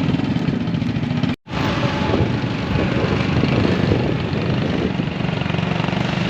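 Motorcycle engine powering a homemade small truck, running steadily, with a brief break in the sound about a second and a half in.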